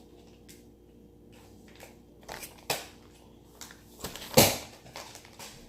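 Slime-kit items being handled and set down on a table: scattered light clicks and knocks, with one louder knock about four seconds in.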